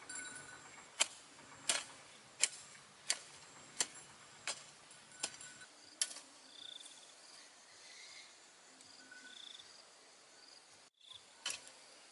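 A run of about eight sharp knocks, evenly spaced a little under a second apart, that stops about halfway through, with short faint high chirps now and then.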